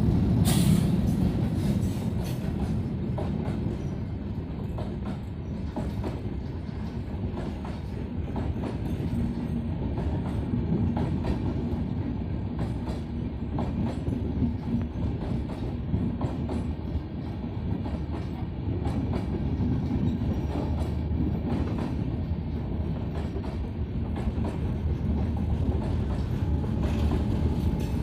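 Banalata Express passenger train running on the rails: a steady low rumble with scattered clicks and knocks from the wheels and cars.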